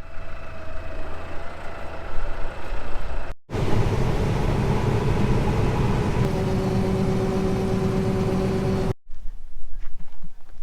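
Farm machinery engines running, in three short clips cut together. First comes a steady engine hum, then a louder, heavier machine noise with steady tones, then a quieter stretch with scattered knocks and clatter.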